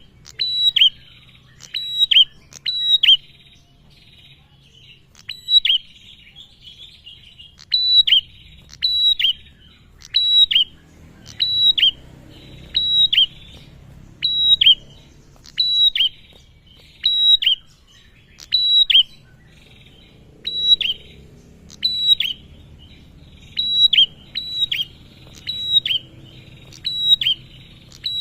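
Male prenjak (a prinia) calling: short, sharp chirps, each dropping quickly in pitch, repeated about once a second, sometimes in quick pairs.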